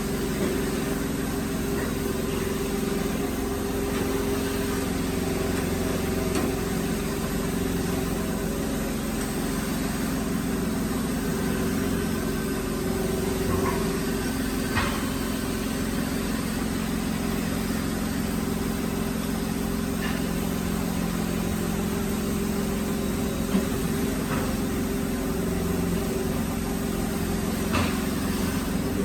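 Woodworking drilling machine's motor running steadily with a constant hum, and a few faint sharp clicks or knocks.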